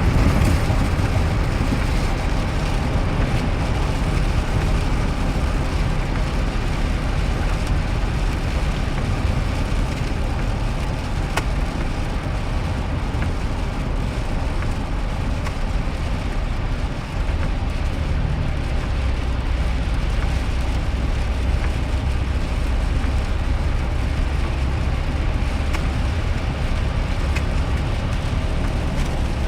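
Cabin noise of a 2001 GMC Sierra pickup driving in the rain: a steady low engine and road rumble under an even hiss of rain and wet tyres. The rumble dips briefly a little past halfway, then carries on steadily.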